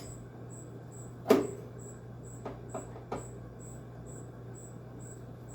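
Screwdriver knocking and clicking against a window air conditioner's cabinet while a screw is worked out: one sharp knock about a second in, then a few light clicks, over a steady low hum.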